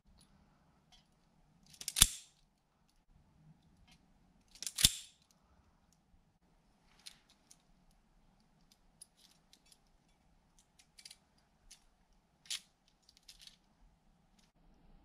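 Wire cutters snipping through the wires of a throttle body connector's harness: two loud snips about three seconds apart, then scattered light clicks of the wires and tools being handled.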